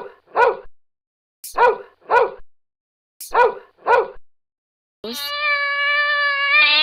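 Cartoon dog barking "woof woof" three times, each a pair of short barks. A long steady-pitched call of about two seconds follows near the end.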